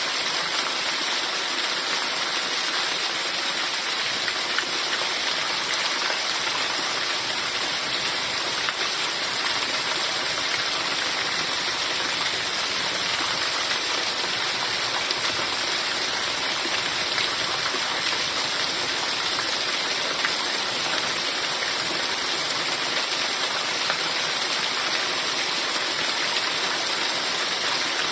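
Heavy rain falling steadily, a dense, even hiss with no separate drops standing out.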